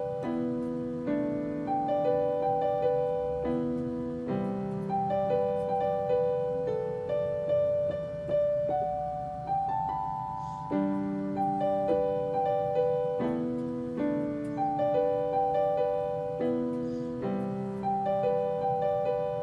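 Solo piano playing a steady, repeating broken-chord pattern: single notes struck one after another over a held bass, forming the instrumental close of the song.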